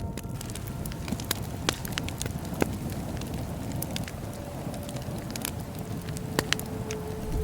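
Bonfire burning: a steady low rumble of flames with irregular sharp crackles and pops from the burning wood, a few louder pops among them, including two close together near the end.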